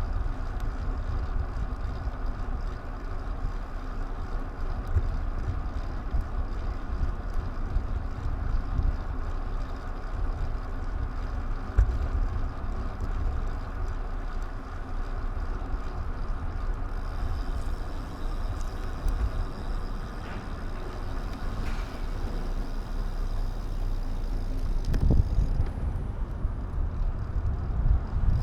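Steady wind buffeting on an action camera's microphone with low rumble from riding along a road. A faint high steady tone joins about two-thirds of the way in.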